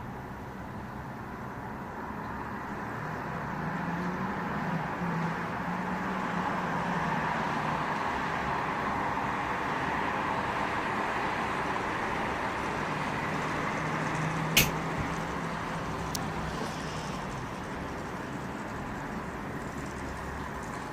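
Road traffic going past: engine hum and tyre noise swelling and fading, with one sharp click about fifteen seconds in.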